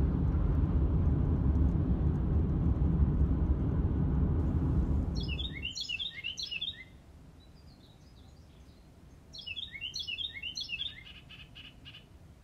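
A steady low rumble that cuts off about six seconds in, then a songbird singing two short runs of quick, downward-slurred chirps.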